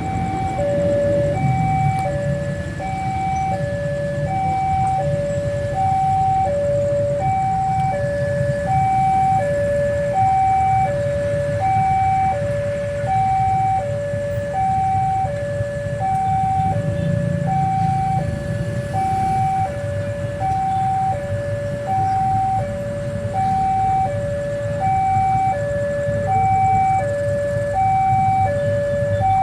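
Railway level-crossing warning alarm sounding its two-tone signal, a higher and a lower tone taking turns about every 0.7 seconds without pause, warning that a train is approaching. Beneath it runs a low rumble of vehicle engines.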